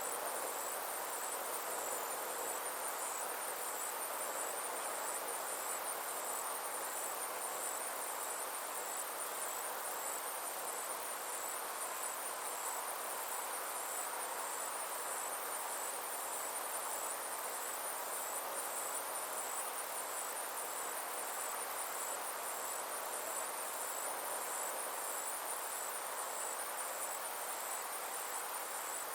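Steady chorus of summer insects: a high, fast-pulsing trill that never lets up, over a soft even hiss.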